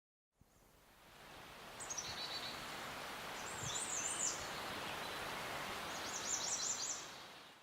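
Outdoor ambience: a steady hiss with a bird singing short, high warbling phrases three times. The sound fades in about a second in and fades out near the end.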